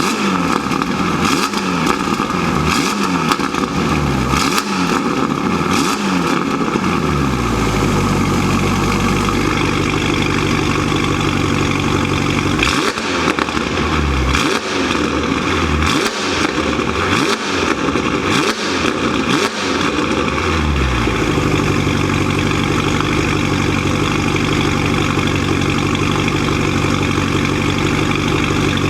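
Ferrari California T's twin-turbo V8 running through an aftermarket exhaust with variable valves, revved in quick blips at standstill: a run of about five revs, a few seconds of idle, another run of about six revs starting about 13 seconds in, then steady idling.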